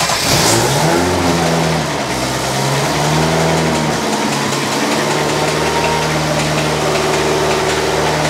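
Ferrari engine in an Alfa 105 just started, revving unevenly for the first few seconds, then settling into a steady idle.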